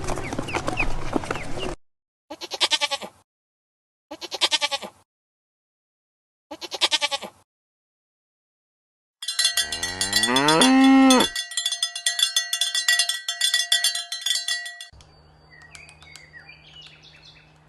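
Three short bleats from livestock, each about a second long and a second or so apart, then several seconds of ringing, bell-like tones with a rising call in them.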